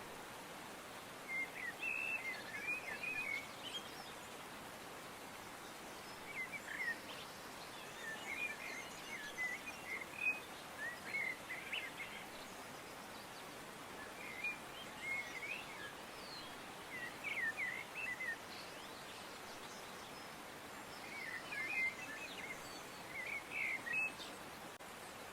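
Small birds chirping in short clusters of quick, high calls every few seconds, over a steady background hiss.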